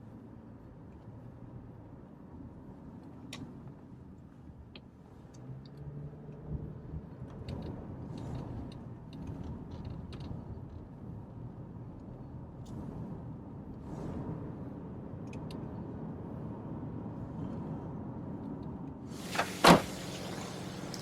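Steady low rumble of a car cabin with a few small clicks. Near the end comes a short rush of noise and one sharp clunk of a car door.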